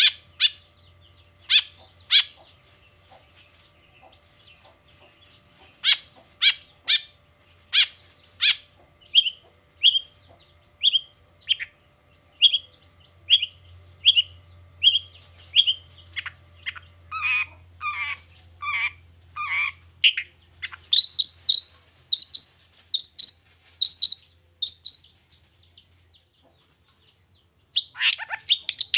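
Long-tailed shrike (cendet) singing: a run of sharp, repeated notes at about two a second, shifting to harsher, lower notes and then two-part notes, followed by a pause of about two seconds and a fast, dense chatter near the end.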